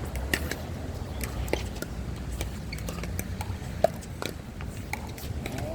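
Pickleball paddles striking the ball: sharp pops at irregular intervals, the loudest about four seconds in, over a steady low rumble.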